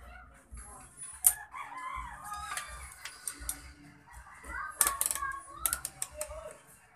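Chickens clucking and a rooster crowing, with several sharp clicks.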